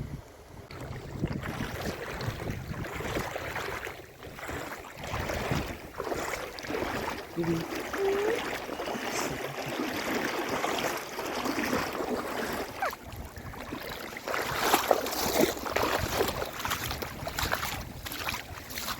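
Outdoor noise of wind buffeting the microphone, with irregular rustling and handling knocks and a short squeak about eight seconds in.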